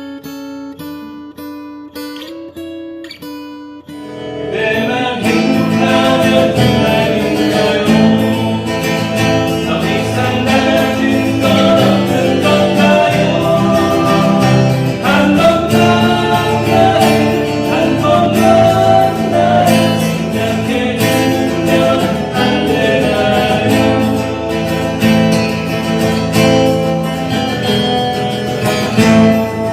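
Acoustic guitar music with singing: a few single plucked notes at first, then from about four seconds in, full strummed playing.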